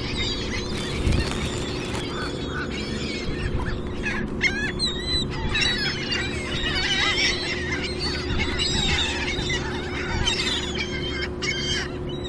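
A flock of seagulls calling, many short squealing cries overlapping, busiest from about four to ten seconds in, over a steady low hum.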